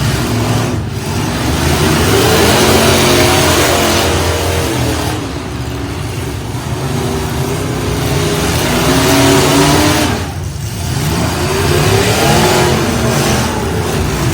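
Several truck engines revving hard over and over, their pitch rising and falling, with a steady loud din throughout. Brief lulls come about a second in and again about ten seconds in.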